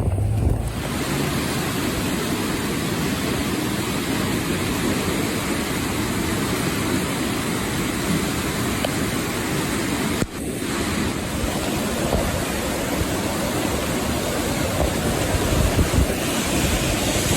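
Loud, steady rushing of floodwater and wind, with a brief dip about ten seconds in.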